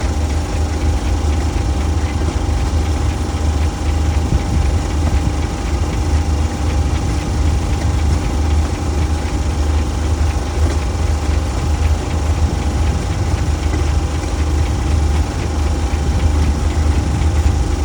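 An engine idling steadily with a deep, even drone.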